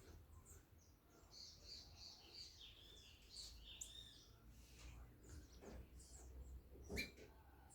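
Faint chirping and short twittering calls of several small birds, busiest in the first half, with one sharp click about seven seconds in.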